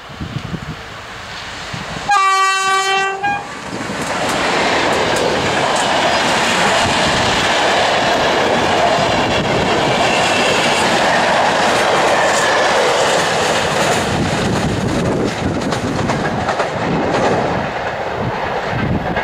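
An EP09 electric locomotive sounds its horn once, a single note lasting about a second: the Rp1 'attention' warning signal. Its train of passenger coaches then passes close by, with loud steady rolling noise and the clack of wheels over the rails.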